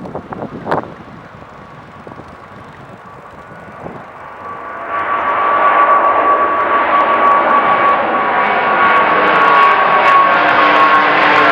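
An airliner's engines grow loud about five seconds in as the plane passes low overhead. A clear whine slowly falls in pitch over the engine noise.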